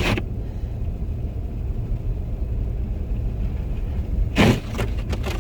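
Steady low road and engine rumble inside a car driving slowly on a snow-covered road. About four seconds in, the windshield wipers make one loud, brief swish across the glass.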